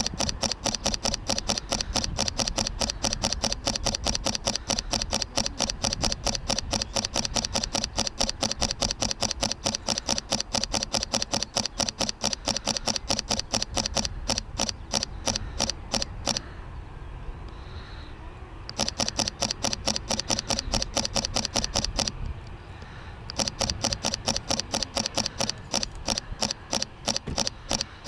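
Fujifilm X-T3 mirrorless camera's shutter firing in rapid continuous bursts, a long run of clicks followed by two shorter ones with brief pauses between.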